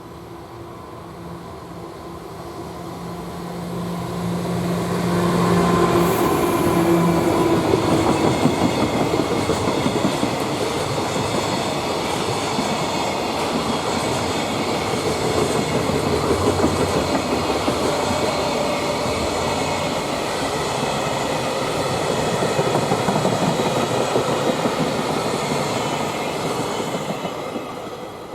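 Freight train passing. First comes a steady humming tone that grows louder over the first few seconds. Then a long string of wagons runs past at a steady loudness for about twenty seconds, dying away near the end.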